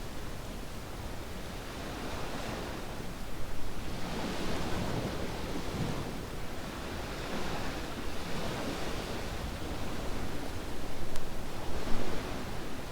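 Surf on a beach, waves washing in and out in swells every few seconds over a steady hiss of sea, with a single sharp pop near the end.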